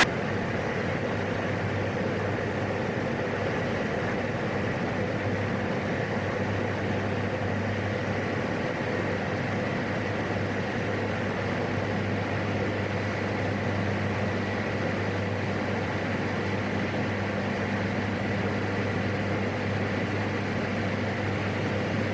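Steady drone of a PAC 750XL's turboprop engine and propeller heard inside the cockpit during the climb after takeoff, with a low hum and a faint high whine, unchanging throughout.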